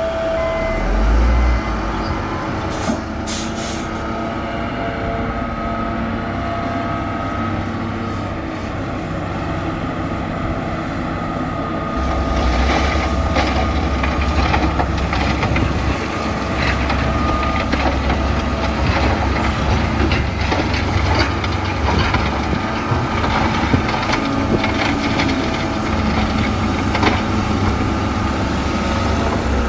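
Bulldozer's diesel engine running steadily while it works in mud. It gets louder about twelve seconds in, with frequent knocks and clanks from then on.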